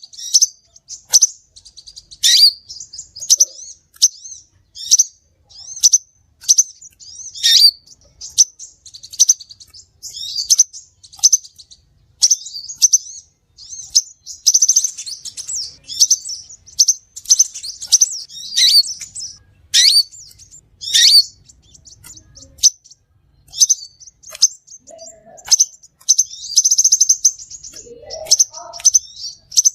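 Crimson sunbird calling: a rapid, irregular string of sharp, high chirps, broken a few times by short buzzy trills.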